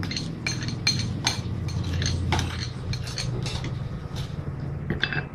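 A kitchen utensil clinking and scraping repeatedly against a dish while the sweet and sour sauce ingredients are handled, in irregular strikes, over a steady low hum.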